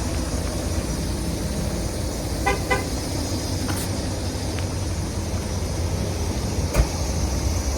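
Mack 10.8L diesel engine of a heavy road tractor idling with a steady low rumble. A pair of short pitched tones sounds about two and a half seconds in, and a single sharp knock comes near the end.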